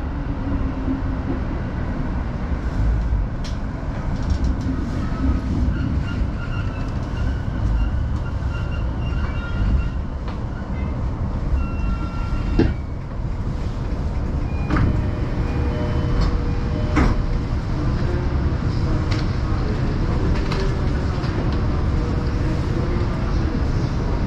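Cabin sound of a Chuo Line E233-series commuter train running: a steady low rumble with scattered clicks from the wheels on the rails. Brief high whines come up about halfway through and again a few seconds later.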